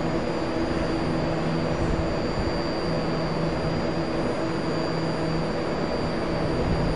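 BART Bombardier MOVIA train standing at the platform with its doors open, its onboard equipment running: a steady hum with a thin, high whine over it.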